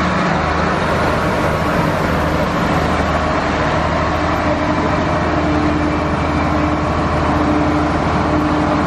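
Adelaide 3000 class diesel-electric railcar running slowly alongside the platform as it arrives: a steady engine drone and wheel noise, with a faint tone that comes and goes.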